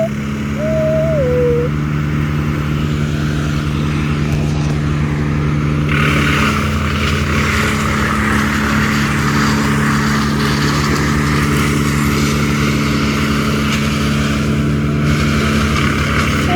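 An engine running steadily at an even speed, with a rougher, hissing layer joining about six seconds in.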